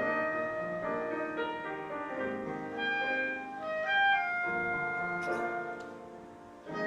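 A live instrumental duo: a sustained wind-like melody line over piano accompaniment. The phrase fades gradually in the second half, and a new phrase enters just before the end.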